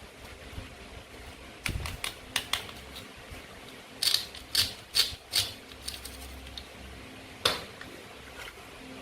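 Sharp clicks and taps of toy play food pieces being handled and cut with a toy knife, coming irregularly: a few about a second and a half in, a quick run of louder ones around four to five seconds, and one more near the end.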